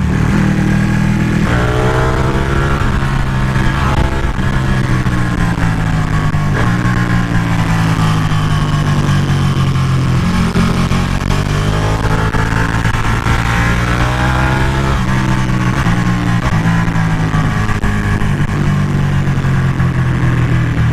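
Ducati 1199 Panigale's 90-degree V-twin engine under hard riding, its revs climbing and dropping again and again as the bike accelerates and slows.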